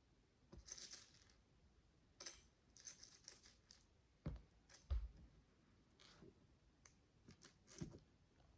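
Tiny plastic micro bricks being handled: light clicks, taps and short rustles at irregular intervals, with two duller thumps about halfway through.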